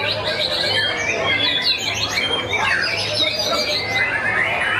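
White-rumped shamas singing, a dense tangle of quick overlapping whistles and chirps from several birds at once, over a steady low hum.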